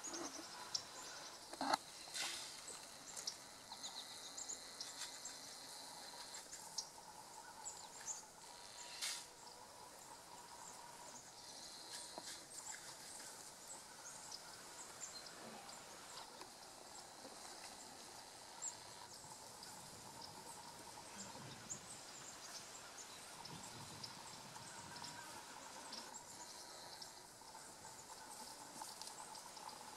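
Faint outdoor yard ambience: scattered high chirps throughout over a low steady hiss and a faint steady tone, with two sharp clicks in the first ten seconds.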